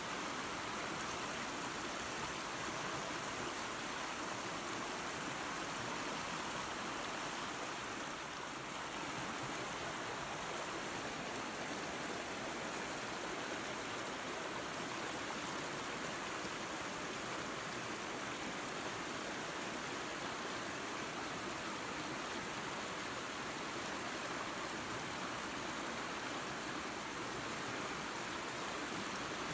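Water of a small waterfall and creek rushing and splashing in a steady, even hiss.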